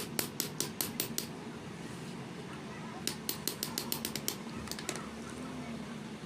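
Two quick runs of sharp taps or clicks, about six a second: one at the start and another about three seconds in. A steady low hum runs underneath.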